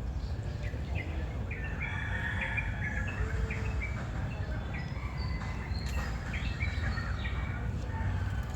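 Small birds chirping in many short, high calls, thickest a couple of seconds in, over a steady low rumble of outdoor background noise.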